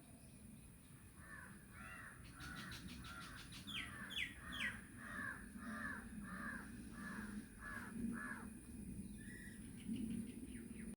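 Birds calling: one bird gives a quick series of about a dozen short, harsh calls, and about four seconds in another gives three short falling whistles over a steady low background hum.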